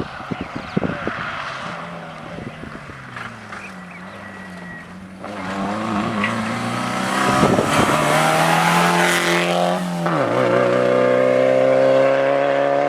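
Rally car engine at high revs, growing louder as it comes closer, with a rush of noise as it passes about halfway through. Near the end the engine note drops sharply at a gear change and then climbs steadily as the car accelerates away.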